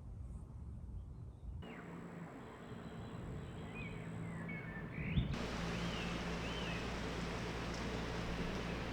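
Outdoor ambience with a steady low rumble and a few faint, short bird chirps; the background changes abruptly twice, about one and a half and about five seconds in.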